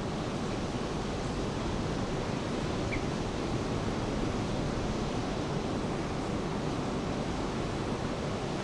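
Steady, even wash of falling rain and ocean surf.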